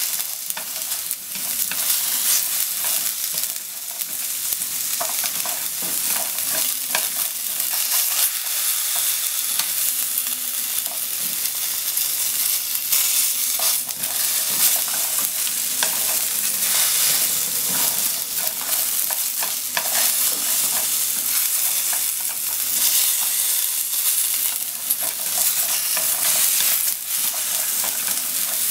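Sliced potatoes sizzling in hot oil in a nonstick frying pan, stirred with wooden chopsticks that repeatedly click and scrape against the pan.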